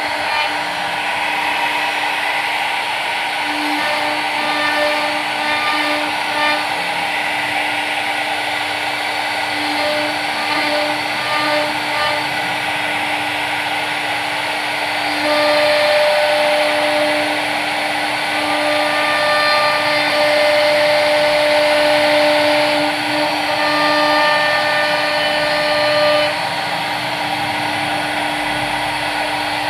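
CNC machine running, its spindle motor giving a steady whine over a noisy cutting sound. It grows louder about halfway through, with an extra higher tone, and eases back near the end.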